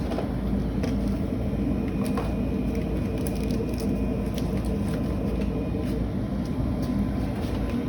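Gas furnace running steadily, a low rumble from its burners and blower, with a few light clicks over it.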